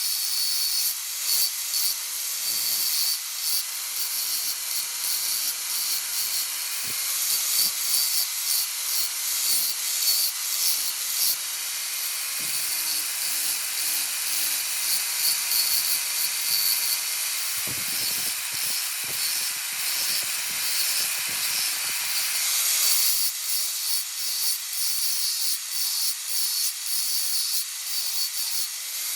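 Steady, high scraping hiss of steel being abraded as a knife blade is shaped, with fast uneven strokes; it thins slightly near the end.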